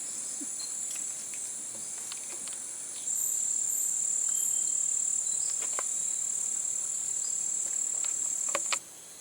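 Jungle insects making a steady high-pitched drone. It grows louder about three seconds in and cuts off suddenly near the end.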